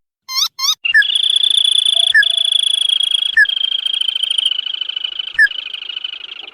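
Recorded lure call of a crake (sintar padi, 'tikusan'): a few sharp sweeping call notes, then from about a second in a long, rapid buzzy trill, broken by a sharp note every second or so.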